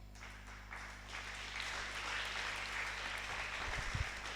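Congregation applauding, a steady patter of clapping.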